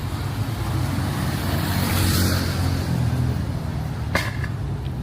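Street traffic: a low, steady engine rumble with a vehicle passing close, swelling to its loudest about two seconds in and then fading. A single sharp click comes a little after four seconds.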